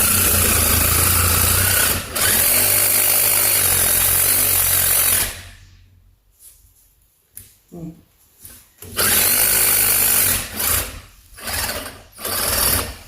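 Battery-powered cutting tool cutting metal beside a pickup truck's rear axle. It runs steadily for about five seconds with one brief break, stops for a few seconds, then comes back in a run of under two seconds and a few short bursts.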